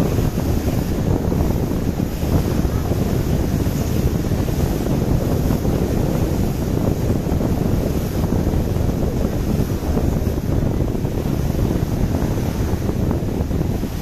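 Steady wind rumble buffeting the microphone aboard a moving boat, with water rushing underneath.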